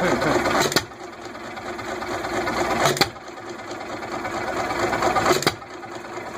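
1926 John Deere 1¾-horsepower single-cylinder hit-and-miss engine running smoothly: it fires with a sharp bang three times, about every two and a half seconds, with a steady clatter while it coasts between firings.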